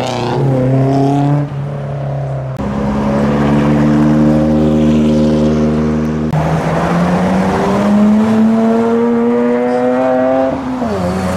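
Modified car engines running as cars drive by and accelerate. The engine note rises, holds steady for a few seconds, climbs again for several seconds, then drops sharply near the end.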